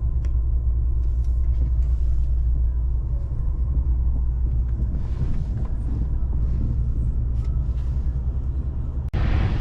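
Steady low rumble of a vehicle on the move: engine and road noise, cutting off abruptly near the end.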